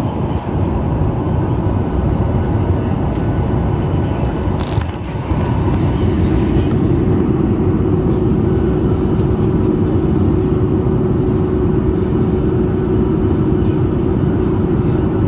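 Steady cabin noise inside a Boeing 737 MAX 8 in flight on descent, the CFM LEAP-1B engines and airflow making a constant rush with a low hum. The sound dips briefly with a short click just before five seconds in, then the hum comes back stronger.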